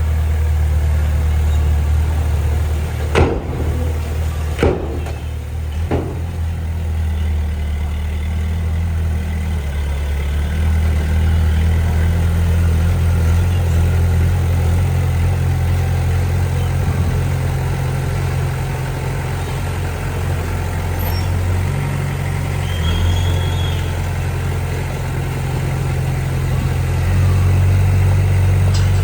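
Heavy earthmoving machine's diesel engine running steadily under light load, rising a little now and then. About three seconds in come three sharp metallic knocks, roughly a second and a half apart.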